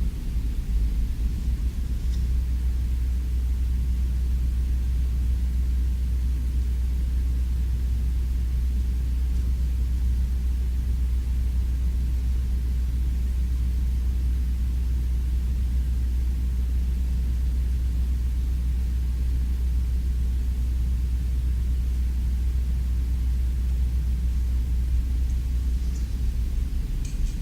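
Steady low rumble in an empty theater, with a couple of faint ticks near the end.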